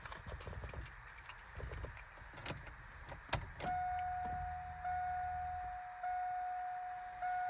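Handling clicks and knocks inside a 2000 Chevrolet Blazer, then, about three and a half seconds in, the dash warning chime starts: a clear ding repeating a little less than once a second. A low hum runs under the first two dings, then stops. There is no engine running yet.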